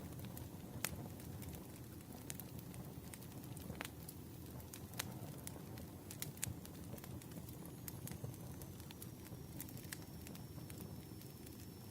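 Campfire crackling: a steady low hiss of burning with sharp pops and snaps at irregular intervals, a few of them louder.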